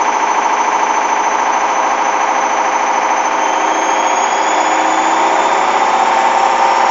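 Hoover washing machine spinning with an unbalanced load: a steady motor whine over mechanical rattle and vibration, its pitch creeping up slightly about four seconds in.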